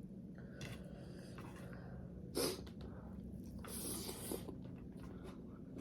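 Mouth and breath sounds of a person eating: a short click about two and a half seconds in, then a breathy noise lasting under a second around four seconds in, over a low steady hum.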